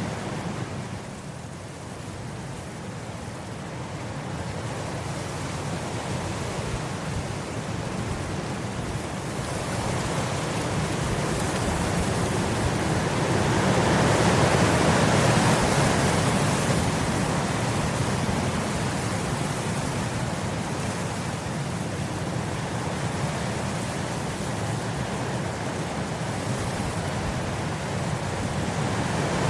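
Wind blowing across grass: a steady rushing noise that gusts up to its loudest about halfway through, then eases back.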